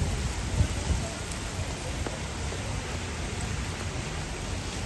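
Heavy rain falling steadily, with a couple of low bumps about half a second to a second in.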